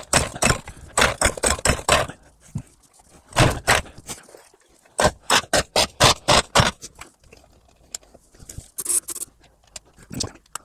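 Honda GX160 163cc single-cylinder engine being pull-started on starting fluid, coughing and popping in irregular bursts without settling into a steady run: it is trying to fire but not catching.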